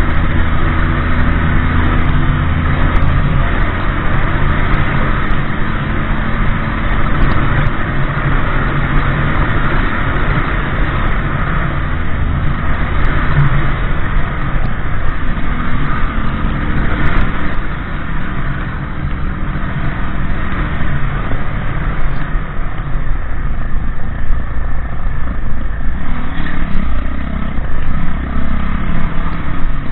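Motorbike engine running while under way, its note rising and falling with speed, over steady wind and road noise.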